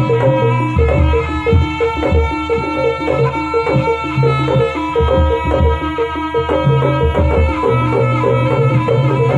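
Jaranan dance accompaniment music: drums and percussion keeping a steady, fast rhythm over sustained melodic instruments and a repeating bass line.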